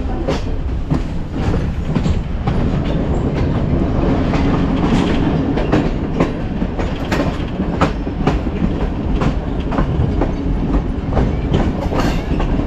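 Passenger train running along the track: a steady rumble with repeated clacks of the wheels over rail joints, about one or two a second.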